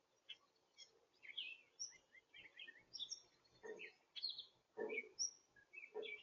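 Small birds chirping and twittering in many quick, short high notes, with three soft thumps in the second half.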